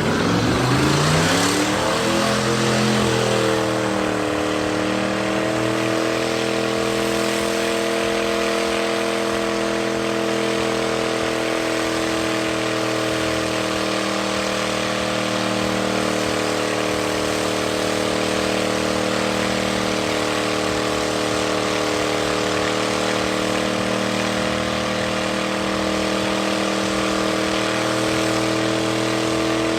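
Truck engine revved up over the first few seconds, then held at steady high revs in a long burnout, with a loud, even hiss of spinning tyres over it.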